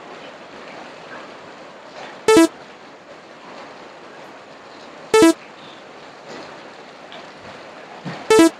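A horn honks briefly three times, about three seconds apart, over a steady hiss of rain.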